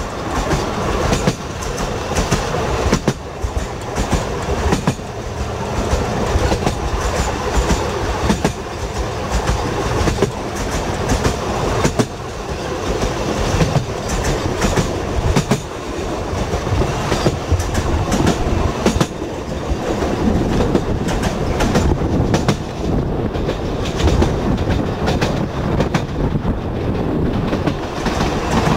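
Narrow-gauge Sóller railway car rolling along the track, its wheels clattering steadily over the rails with many irregular clicks and knocks.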